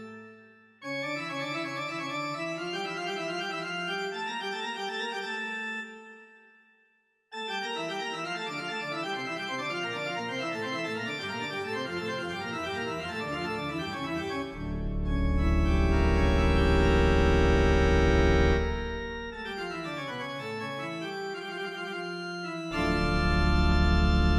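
Organ music playing held chords in several phrases, with short breaks between them and louder, fuller passages in the second half.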